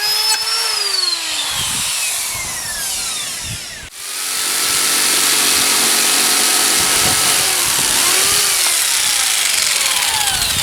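Electric power tool working wood, its motor whine sliding down in pitch as it is switched off and winds down early on. After a short break near the middle it runs again at a steady whine with a hiss from the wood being worked, then winds down again in the last few seconds.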